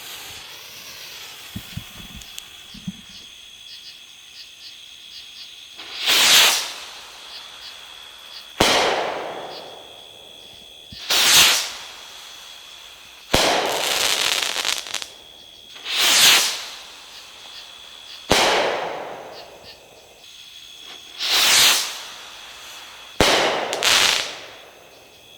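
Four consumer firework rockets fired one after another: each launches with a whoosh that swells and fades in about a second, and about two seconds later breaks with a sudden bang that trails off in a crackling hiss over a second or two.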